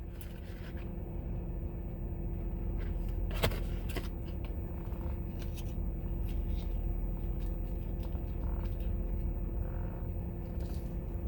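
Food and packaging being handled, heard as scattered small clicks and scrapes, with one sharper click about three seconds in, over a steady low hum with a faint steady tone.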